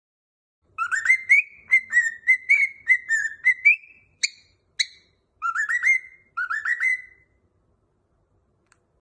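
Cockatiel whistling its song: a quick run of short rising whistled notes, a gap with two sharp chirps, then two shorter runs of rising notes. The song goes quiet about two seconds before the end.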